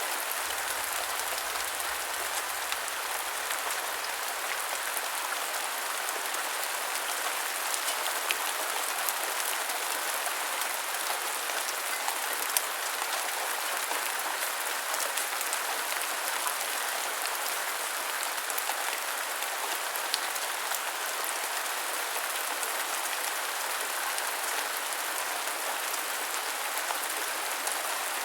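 Steady rain: a continuous hiss of rainfall with individual drops ticking sharply here and there.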